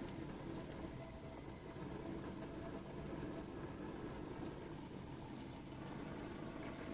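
Faint, steady running of a small propane-fired Stirling engine generator and its water-cooling pump and fan: a low hum with light, scattered ticks. The engine is very quiet.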